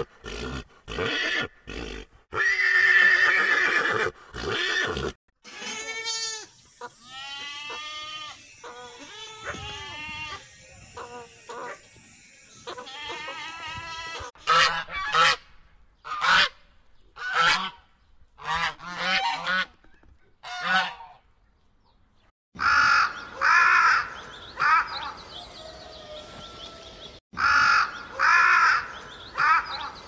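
A horse neighing and whinnying in loud calls over the first five seconds, then a run of other animal calls, including a domestic goose honking in short repeated calls in the middle stretch. Near the end come louder harsh bird calls in a series.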